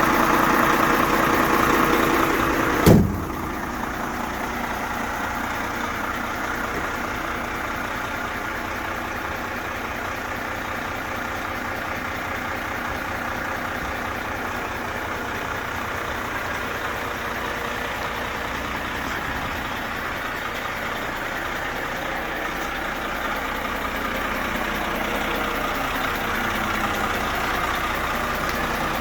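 Renault Premium 460 tractor unit's six-cylinder diesel engine idling steadily. It is louder for the first three seconds, with one sharp loud thump about three seconds in, then runs on steadily at a lower level.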